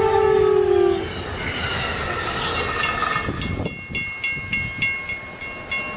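A train's horn sounds a chord that sags in pitch and cuts off about a second in, followed by a rushing noise. In the second half, a rapid high metallic ringing strikes about three to four times a second.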